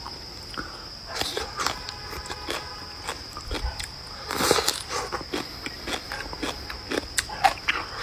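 Close-up eating sounds: irregular wet chewing, smacking and crunching of food in the mouth, with a louder bite about halfway through. A steady high-pitched whine runs underneath.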